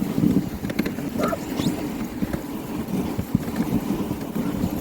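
Dog sled under way over snow: a steady, rough rushing scrape from the moving sled and team, with a few faint high chirps.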